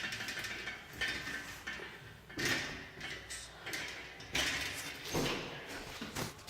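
A few knocks and scrapes of hard objects being handled and moved, in irregular bursts.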